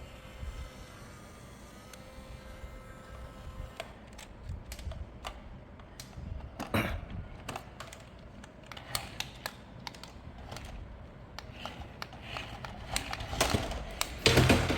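Irregular run of small clicks, taps and rustles from handling a plastic toy vehicle and its packaging, growing busier and louder toward the end.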